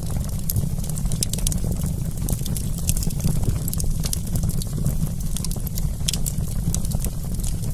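Wood campfire crackling: many small, sharp pops and snaps at irregular intervals over a steady low rumble of the burning fire.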